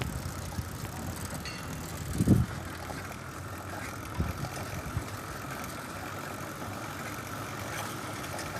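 Steady road and wind noise from riding a bicycle, with a few short low thumps, the loudest about two seconds in.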